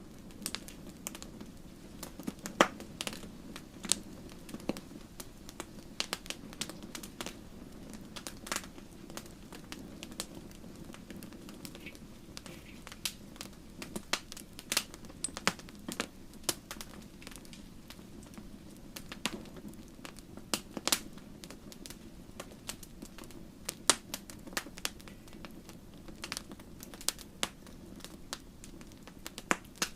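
Wood fire burning in a fireplace: irregular sharp crackles and occasional louder pops over a steady low rush of the flames.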